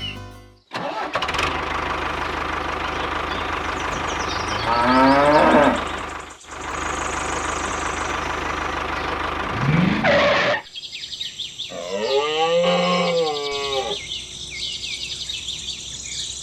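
Tractor engine running steadily, revving up in pitch twice before stopping about ten seconds in. A quieter wavering call follows.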